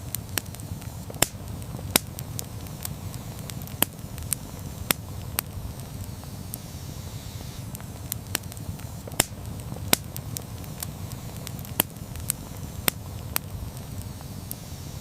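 Wood campfire burning: a steady low rumble of flame with frequent sharp, irregular crackles and pops.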